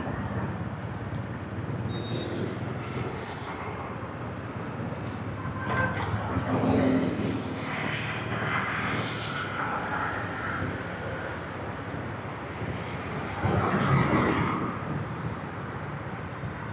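Motorbike engine running steadily in dense city motorbike traffic, with road and wind noise. The traffic noise swells louder twice.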